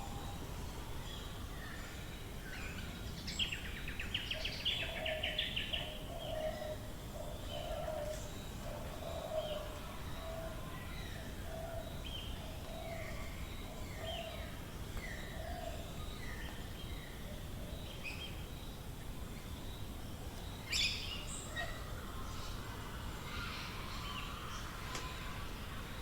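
Australian bush dawn chorus: several birds calling over a steady background hiss. A series of low repeated notes runs from about 3 to 10 seconds in, with a fast trill early on and a sharp louder call about 21 seconds in.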